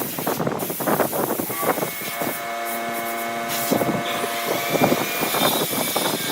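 Woodworking machine running and cutting wood, with rough irregular scraping noise; a steady motor hum joins about a second and a half in.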